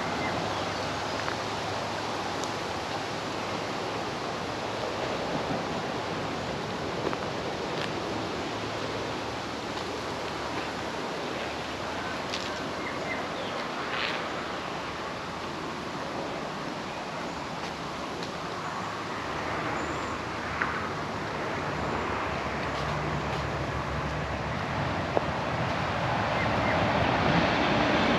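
Steady road-traffic noise. A vehicle's low engine hum comes in during the second half and grows louder near the end.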